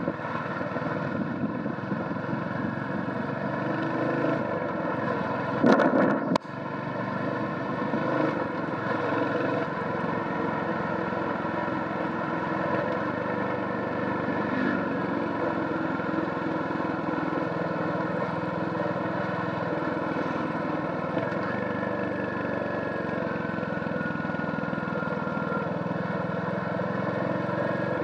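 Royal Enfield Hunter 350's stock-exhaust single-cylinder engine running steadily while riding. A brief loud burst about six seconds in.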